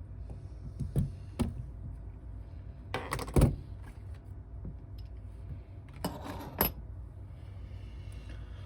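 Small hard objects, metal tools or parts, clinking and clattering on a hard work surface: two sharp clicks about a second in, then two louder bursts of clatter near the middle and again about two-thirds of the way through.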